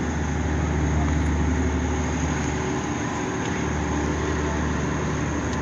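A ship's diesel engine running steadily: a low, even drone that holds the same pitch throughout.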